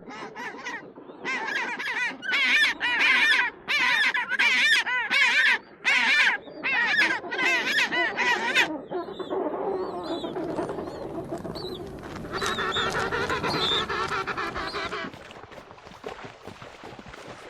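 Waterfowl honking: about a dozen loud calls in quick succession, then softer, overlapping calls from several birds.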